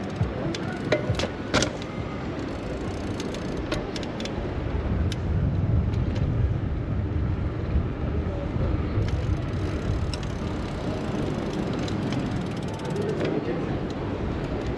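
Riding noise from a bicycle in city traffic: a steady rush of tyres and wind with sharp clicks and rattles, and a stronger low rumble from about five to nine seconds in.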